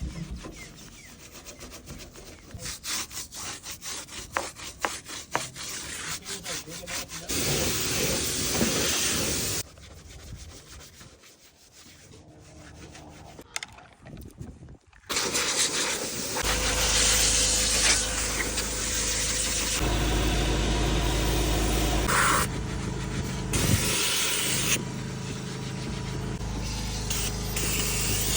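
Quick, repeated brush-scrubbing strokes, then about halfway through a loud, steady motor starts running with a low hum, changing character a few times between cuts.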